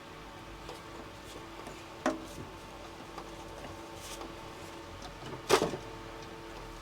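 Sheets of paper artwork being handled: two short, sharp rustles or taps, about two seconds in and a louder one about five and a half seconds in, over a steady faint hum.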